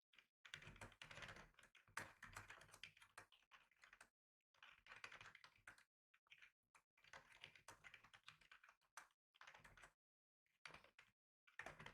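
Quiet typing on a computer keyboard: quick runs of keystrokes broken by short pauses, about seven runs in all.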